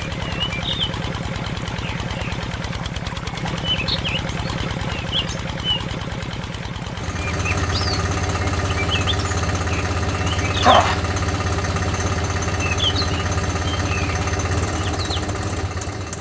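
Tractor engine sound, a low steady chugging. About seven seconds in it changes to a steadier drone with an added hum.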